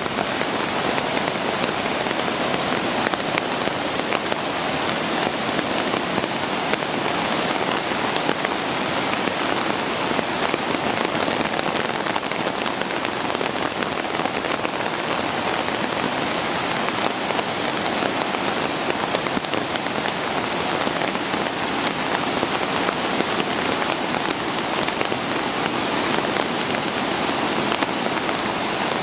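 Rainstorm: rain falling steadily in a dense, even hiss of drops striking surfaces.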